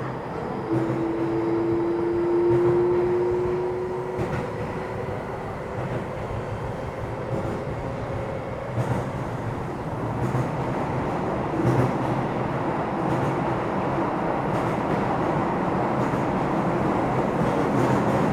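Keio 7000 series electric train running on the line, a steady rumble of motors and wheels on rail. A faint tone rises slightly in pitch in the first few seconds, and the noise grows louder toward the end.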